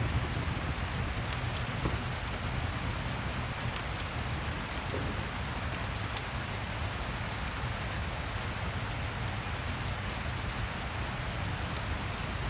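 Steady rain, a constant even hiss, with a few sharp crackles of a fireplace mixed in.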